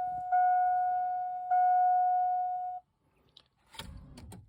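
Electronic warning chime, a single clear ding struck about every 1.2 seconds and fading each time, which stops abruptly about three seconds in. A few faint clicks and a low rumble follow near the end.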